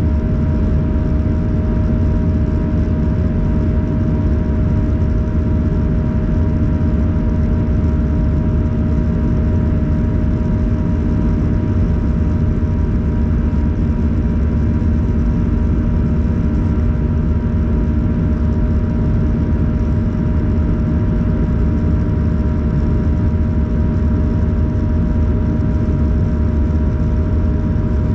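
Airbus A321 in flight heard from inside the passenger cabin: the engines drone steadily, with a few constant whining tones over a deep rumble of airflow.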